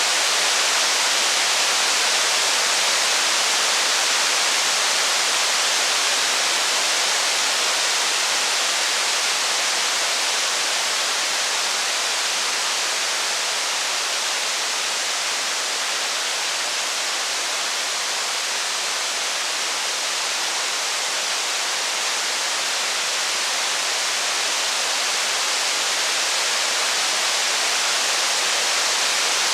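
Steady, dense rain hiss with no single drops, crackles or thunder standing out. It eases slightly around the middle and builds back.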